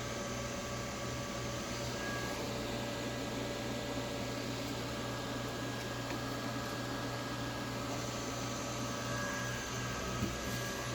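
Steady fan and electrical hum from running equipment: an even hiss with a low hum and a few constant whining tones, and one faint click near the end.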